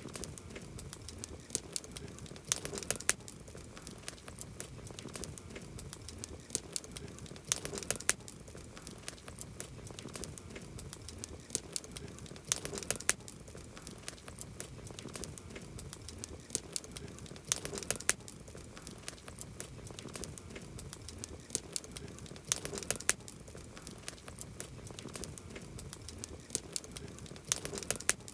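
Wood campfire crackling, with a steady stream of small snaps and pops over a soft hiss, and a cluster of louder pops about every five seconds.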